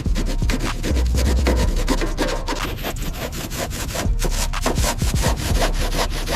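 Quick back-and-forth rubbing strokes on a surface, several a second and steady throughout, as in scrubbing or sanding grime off a car body.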